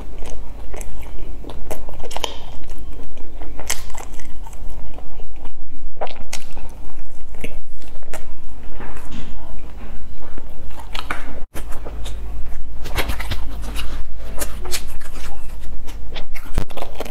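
Close-miked chewing and biting of a crumb-coated bread bun: a dense run of small crunches and mouth sounds over a low steady hum, cut off for an instant about eleven and a half seconds in.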